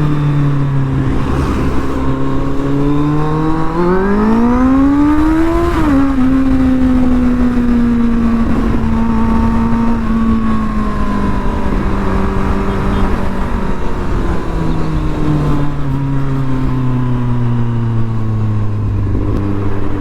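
Kawasaki Z800's inline-four engine through an Arrow titanium exhaust, on the move: the revs climb for about two seconds, drop sharply as the throttle is closed or a gear is changed, then wind slowly down as the bike slows.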